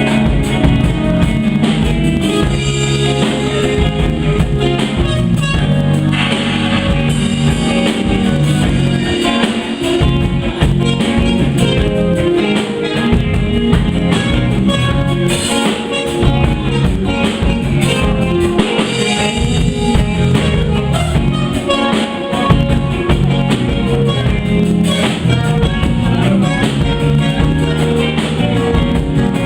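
A live band playing an instrumental passage with electric guitar, bass and drum kit.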